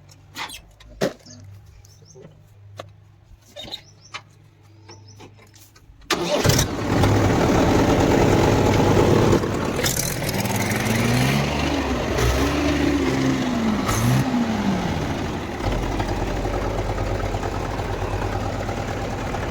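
Mahindra Bhoomiputra tractor's diesel engine starting suddenly about six seconds in, after some light clicks and a faint hum. It then runs loudly, with the revs rising and falling a few times in the middle before settling into a steadier run.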